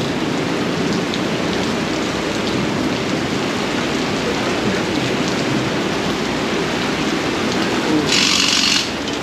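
Steady heavy rain falling, with a brief sharper hiss about eight seconds in.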